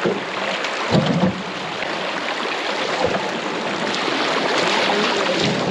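River water rushing through a narrow, faster-flowing stretch as an aluminum canoe runs it, the rush growing louder toward the end, with a couple of knocks about a second in.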